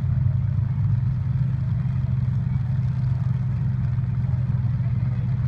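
Derby trucks' engines running steadily with a low, even drone.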